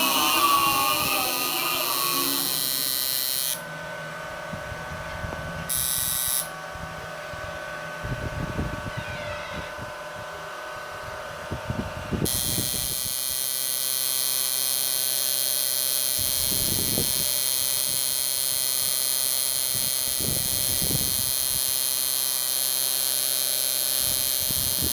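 Steady electrical hum made of several level tones, with a high hiss that drops out for several seconds about four seconds in and returns about twelve seconds in. Occasional short low rumbles break through it.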